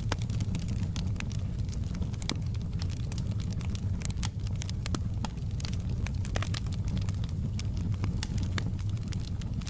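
Fire in a fireplace crackling, with frequent irregular pops and snaps over a steady low rumble of the flames.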